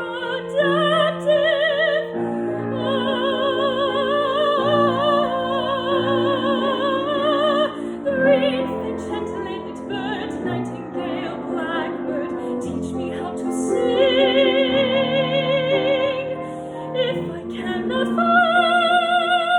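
Soprano singing long held notes with wide vibrato over piano accompaniment, in the closing phrases of a musical-theatre ballad.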